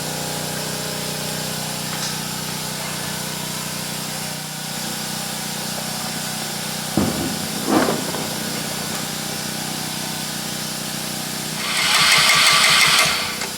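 A steady low engine hum runs throughout. About twelve seconds in, a loud rushing hiss lasts about a second and a half.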